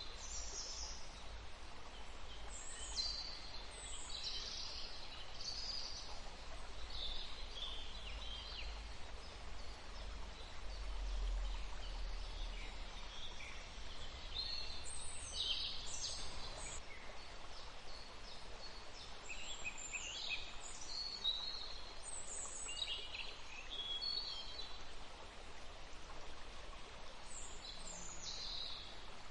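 Wild birds chirping and singing: many short, high, mostly falling notes in scattered clusters over a steady faint background hiss, with a low rumble underneath.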